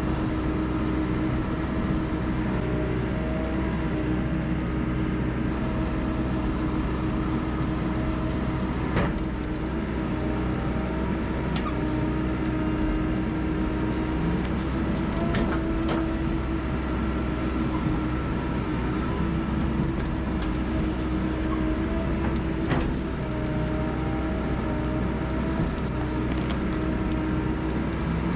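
Diesel engine of tracked heavy equipment running steadily under work, with a steady whine over a low rumble and a few sharp metallic clanks.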